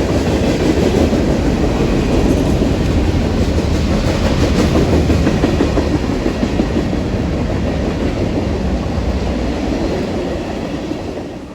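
A CN train rolling past on the track, its cars running by steadily; the sound drops away sharply near the end.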